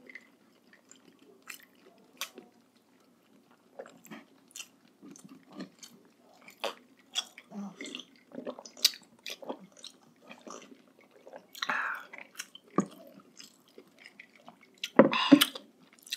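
Close-miked chewing and mouth sounds of people eating balut, in many short, irregular smacks and clicks. There is a louder burst of sound a little before the end.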